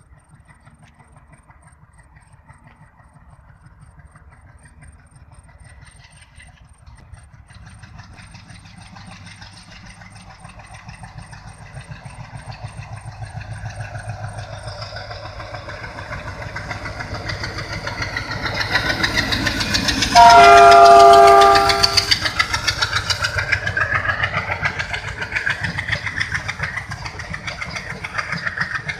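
WDG-3A diesel-electric locomotive hauling a passenger train approaches, its engine growing steadily louder. About twenty seconds in it sounds one loud horn blast of about two seconds. The coaches then roll past with a rapid clickety-clack of wheels over the rail joints.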